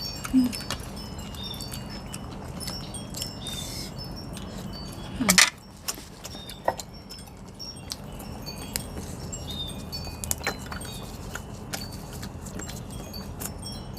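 Wind chimes tinkling in the breeze, many short high ringing notes scattered irregularly. A single sharp knock about five seconds in, with a few lighter clicks later.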